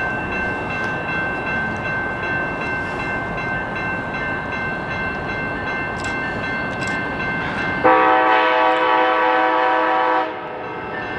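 Amtrak passenger train running past with a steady rumble and a faint high whine. About eight seconds in, one loud horn chord blasts for about two seconds and cuts off sharply.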